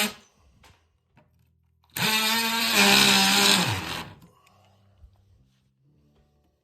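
Handheld power cutting tool running in one burst of about two seconds with a steady high whine, then winding down, while cutting through old nails in a lath and plaster ceiling.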